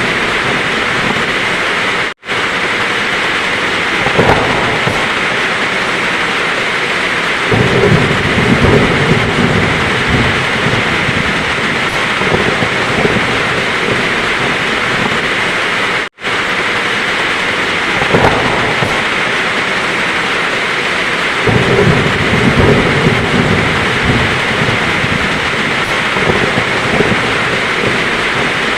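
Heavy rain falling steadily, with low rolls of thunder rumbling under it several times. The same stretch of storm repeats about every 14 seconds, and the sound cuts out for a split second at each join, twice.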